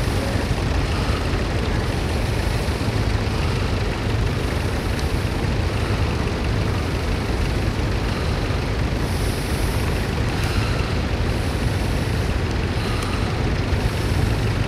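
Vintage tractor engine running steadily while ploughing, a continuous low rumble.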